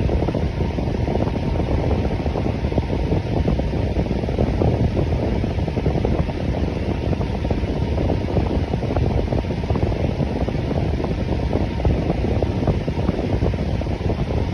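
Electric fan running steadily: an even, low whooshing rush of air with no changes.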